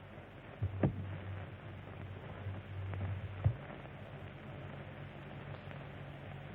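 Hiss and low hum of an old film soundtrack, broken by two sharp clicks, one about a second in and one about three and a half seconds in. At the second click the hum jumps to a higher pitch.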